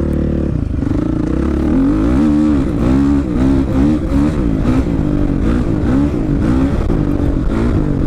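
Two-stroke dirt bike engine under way on a trail, holding a steady note briefly, then revving up and down over and over as the throttle is worked, the pitch rising and falling roughly every half second to second.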